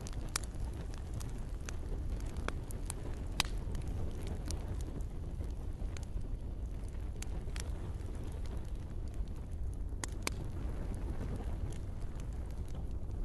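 Wood campfire crackling, with irregular sharp pops and snaps scattered over a steady low rush.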